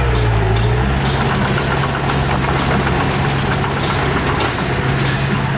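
Heavy diesel engine of earthmoving machinery running steadily at a low, even pitch, with light rattling on top.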